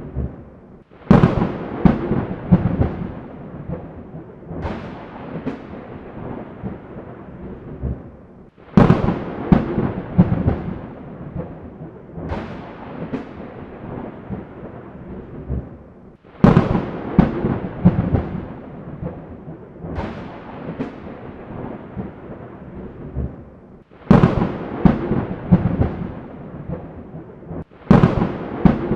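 Thunder over rain: five claps, each starting suddenly with a sharp crack and rolling off into rumble over several seconds, about every seven to eight seconds, with the last two closer together near the end.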